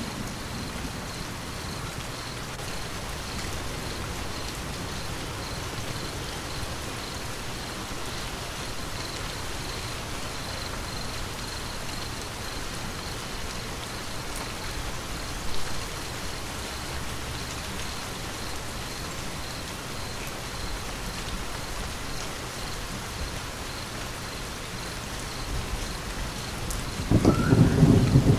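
Steady rain pattering, heard as an even hiss. Near the end a loud, low thunder rumble sets in.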